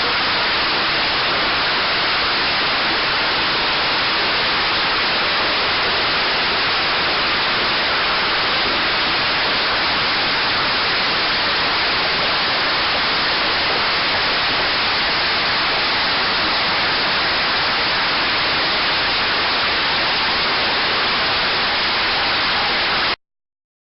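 Hailstorm: hail and rain coming down hard in a dense, steady rush of noise with no separate impacts standing out. It cuts off suddenly near the end.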